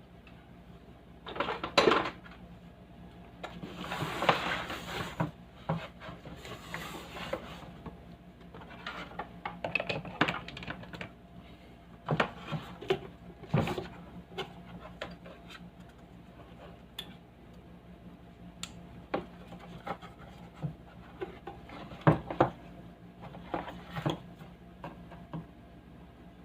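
Scattered clicks, light knocks and scraping from hands handling tools and small hard parts, with a few longer rubbing stretches. Faint steady low hum underneath.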